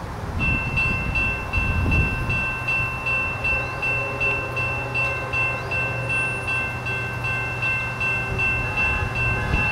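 CSX diesel freight locomotive approaching with its engine rumbling low. A bell rings rapidly, about three strikes a second, from about half a second in.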